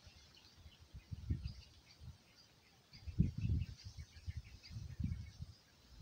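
Small birds chirping, many short quick notes, over low rumbling gusts of wind noise that come and go and are loudest about three seconds in.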